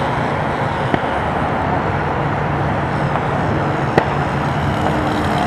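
Small model-airplane engine running steadily at a low, even pitch, with two short clicks, about a second in and about four seconds in.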